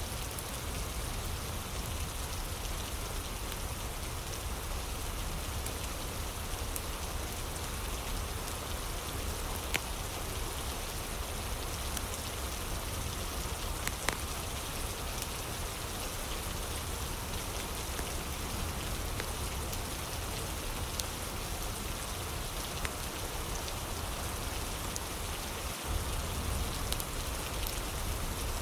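Steady rain with a few sharp fire crackles now and then.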